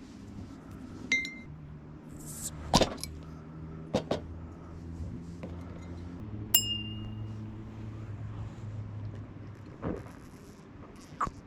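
Light clinks and knocks of small hard objects, two of them with a short metallic ring, over a low steady hum.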